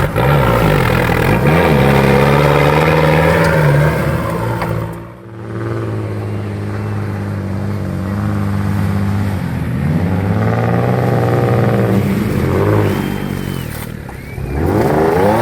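Off-road vehicle engine running and revving, its pitch rising and falling. It dips briefly about five seconds in, and a sharp rev rises near the end.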